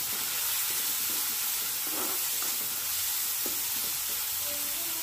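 Chopped onions, green chillies and dried prawns sizzling steadily in oil in an iron kadai, stirred with a metal spatula that scrapes the pan a few times.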